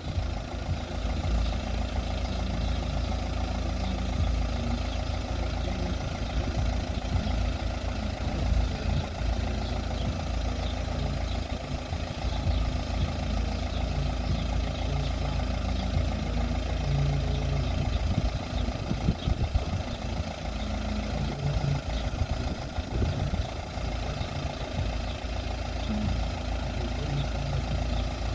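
Road vehicle engines idling with a steady low rumble.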